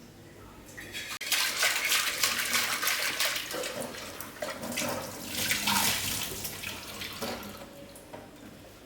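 Water running from a tap, starting about a second in, easing off briefly midway, then coming back before it fades near the end.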